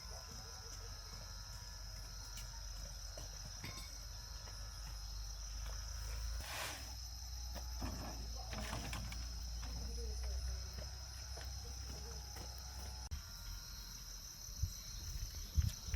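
Steady high-pitched insect chorus, with a low rumble underneath and a few soft knocks near the end.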